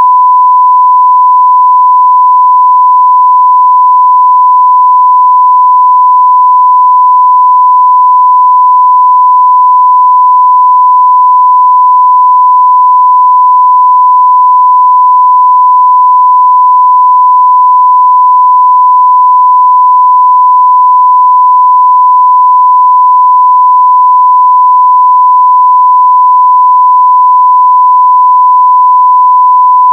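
Continuous 1 kHz sine-wave test tone at full level: a single steady pure beep that does not change.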